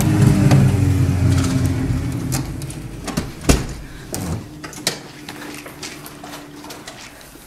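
A motor vehicle's engine running and fading away over the first three seconds or so, its pitch dropping slightly. Then a sharp thump about three and a half seconds in, with light knocks, clicks and fabric rustling as a hanging bedsheet is pushed aside.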